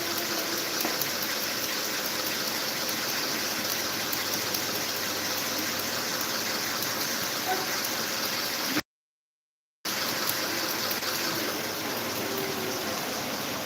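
Electric table fan running steadily, a constant rush of air with a faint motor hum; the sound cuts out completely for about a second just past the middle.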